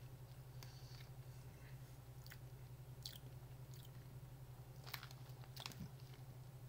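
Faint crunching and chewing of hot and spicy pork rinds, a few sharp crackles spread out over several seconds, over a steady low hum.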